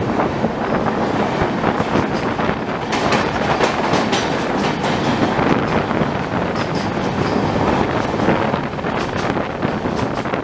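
Swaraj Express passenger train running at speed, its wheels clattering over the rail joints with a steady rumble and rush of air, and a flurry of clicks in the middle.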